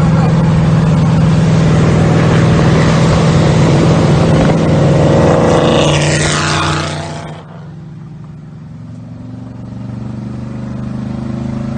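A motor engine running loudly. About six seconds in there is a falling whoosh, and then the sound drops suddenly to a quieter, steady engine drone that slowly grows louder.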